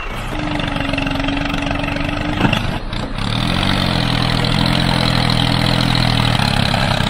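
Small tractor-type engine starting and settling into a steady idle about three seconds in, after a steady hum and a single click.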